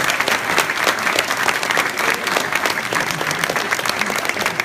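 Audience applause: many people clapping together, steady, thinning out at the very end.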